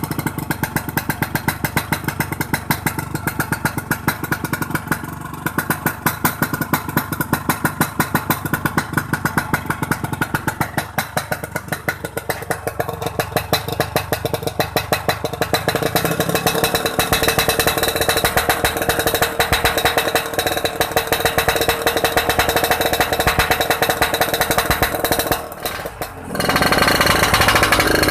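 Motorcycle engine running through a BOBAN C33 aftermarket exhaust, an even, rapid pulsing of exhaust beats at a steady idle. Near the end it dips briefly and comes back louder.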